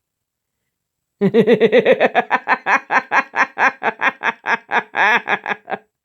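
A woman laughing hard in a long, even run of 'ha' bursts, about five a second, starting about a second in.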